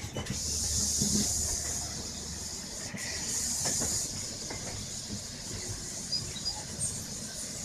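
Passenger train running, heard from on board: a steady high-pitched hiss of rushing air over a low rumble, with a few faint clicks from the track. The hiss comes in just after the start and eases off about four seconds in.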